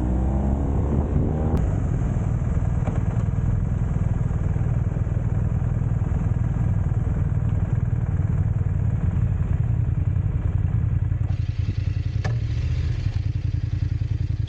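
Motorcycle engines running in a dense, steady low rumble, with engine pitch rising and falling in the first second or so as they rev.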